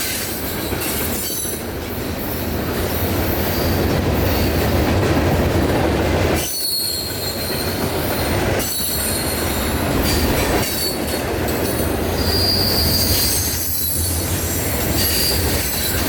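Freight train cars rolling past on the rails, a continuous rumble with wheels squealing in high tones that come and go, and some rail clatter.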